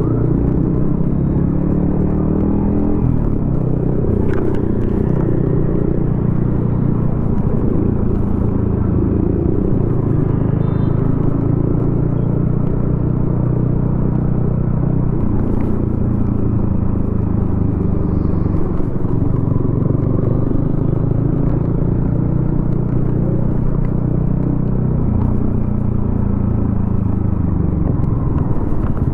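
Yamaha XSR155's 155 cc single-cylinder engine through a DIY exhaust, riding in traffic: the exhaust note rises and falls several times as the bike accelerates, shifts and eases off.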